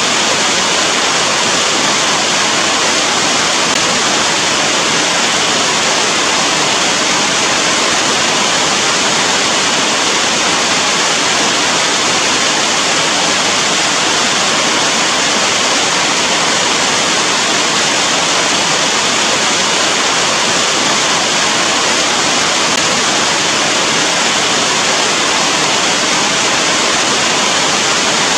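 Rain falling steadily, a dense, even hiss with no separate drops or thunder standing out.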